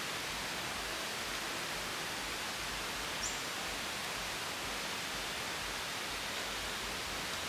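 Steady, even hiss of rainforest ambience, with one brief high chirp about three seconds in.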